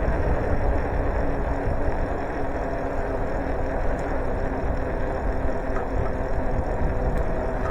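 Steady rumble of wind on the microphone and road noise from a bicycle being ridden, with no sudden events.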